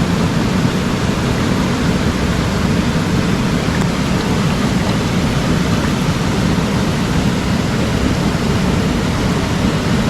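Mountain stream water rushing steadily, a loud even rush of falling and flowing water.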